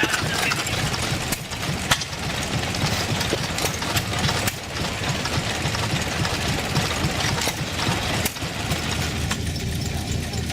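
Stationary hit-and-miss gasoline engines running, a steady low chugging with a few sharp pops.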